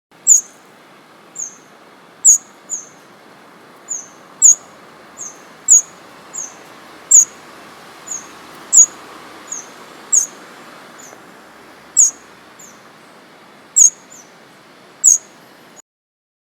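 A bird giving short, sharp, high chirps, louder and softer ones in turn, every second or so, over a steady background hiss. The sound cuts off suddenly near the end.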